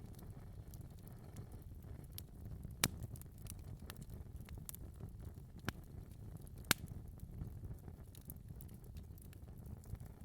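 Fire crackling in a fireplace: a steady low rumble of flames with scattered small crackles, and three sharper pops about three, six and seven seconds in.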